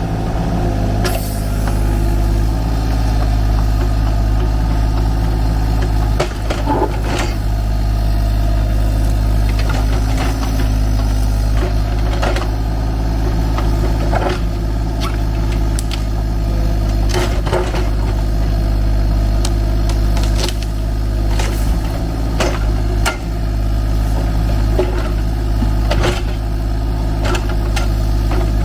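Kubota U35-4 mini excavator's diesel engine running steadily, with scattered knocks and scrapes as the machine works.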